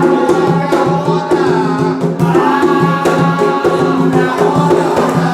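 Umbanda ponto (ritual chant) sung by voices over hand drums keeping a steady, fast beat.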